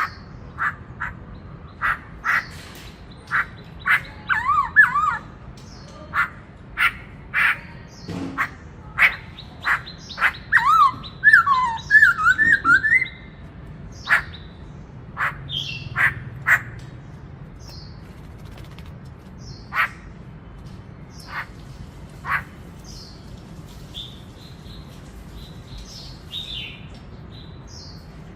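Black-throated laughingthrush (khướu bạc má) singing: a run of short, sharp calls with two bursts of fast warbling, one about four seconds in and a longer one around ten to thirteen seconds, then thinning to scattered calls and short whistles in the second half.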